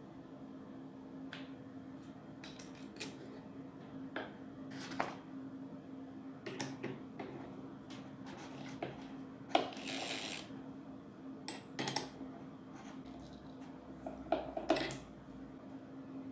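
Scattered metallic clicks and clinks of a drill chuck and bit being handled, with a short scraping rasp about ten seconds in, over a faint steady hum.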